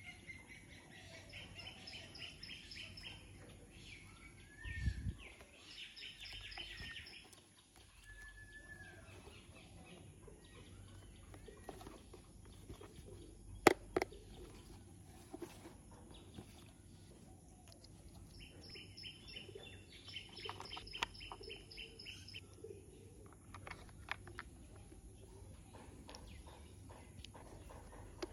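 Small birds chirping in quick trilled phrases, in two spells. Between them come scattered sharp clicks and knocks of plastic toy parts being handled, the loudest about halfway through.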